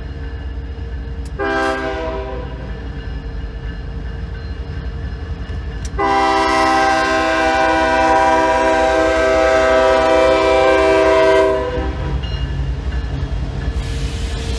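Diesel locomotive air horn: a short loud blast about a second and a half in, then a long, louder blast of about six seconds that cuts off, all over the low rumble of the passing train.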